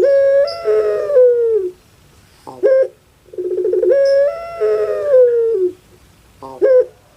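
Puter pelung, a Barbary dove (Streptopelia risoria), calling in a repeated 'kuk gerukkk kwokkk' pattern. A short clipped note comes first, then a long drawn-out coo that opens with a rattling trill, holds, steps in pitch and falls away at the end. One long call ends about a second and a half in, another runs through the middle, and short notes come between them.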